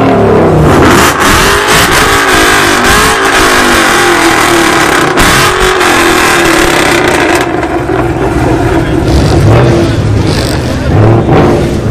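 Car engines revving hard, the pitch rising and falling repeatedly. About two-thirds of the way through the raspy exhaust hiss drops away and a steadier, lower engine note carries on.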